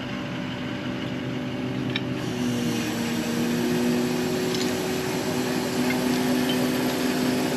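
An engine running steadily with a droning hum, its pitch shifting slightly about two to three seconds in, as a load of well pipe is let down with the lifting rig.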